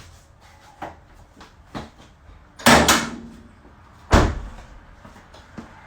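A few sharp knocks: two small taps, then a loud double knock a little before halfway with a short ringing tail, and a single loud knock about a second later.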